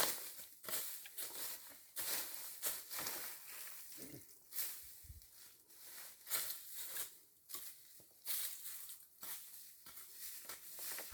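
Irregular dry rustling and crackling, a few strokes a second, with a soft low thump about five seconds in.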